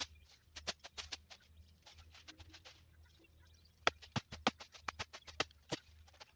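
An irregular series of sharp clicks and knocks, bunched in quick runs and loudest in the second half, over a steady low hum.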